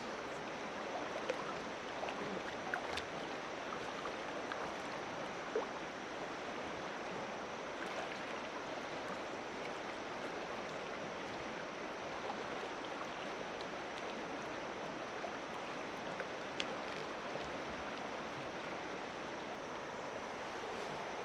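Steady rush of flowing water, with a few short sharp knocks or splashes scattered through it.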